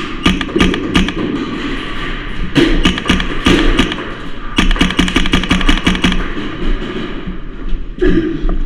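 Airsoft guns firing: a few single shots in the first second and another about two and a half seconds in, then a rapid automatic burst of about ten shots a second lasting about a second and a half, and one more shot near the end.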